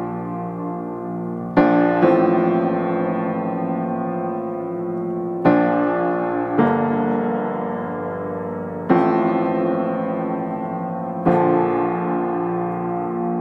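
Background music: slow piano, with chords struck every two to three seconds and left to ring and fade.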